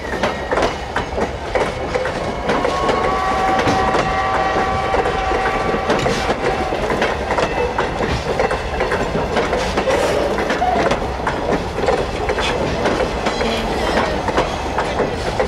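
Railroad passenger coaches rolling past at close range: a steady rumble with their wheels clicking over rail joints.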